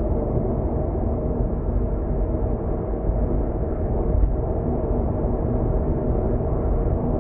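Steady road and engine rumble of a car cruising at expressway speed, heard from inside the car, with a faint constant hum and no sudden events.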